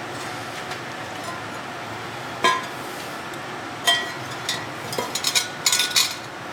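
Small metal parts and tools clinking and knocking, with single sharp clinks about 2.5 and 4 seconds in and a quick run of clinks near the end, some ringing briefly, over a steady background hum.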